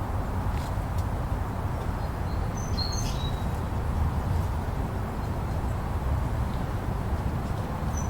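Steady blizzard wind rushing with a deep rumble, with a few short, high bird chirps about three seconds in.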